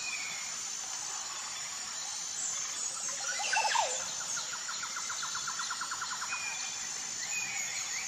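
Forest birdsong: short whistled calls, then a loud burst of quick sweeping chirps about halfway, followed by a rapid trill of evenly spaced notes and another higher trill near the end, over a steady high-pitched background drone.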